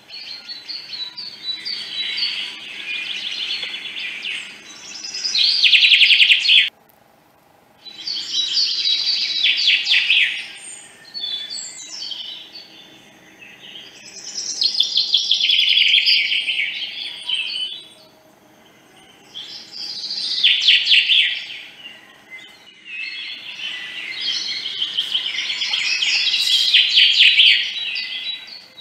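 Birds chirping and twittering busily in phrases of a few seconds, with short breaks between them and one sudden pause about seven seconds in.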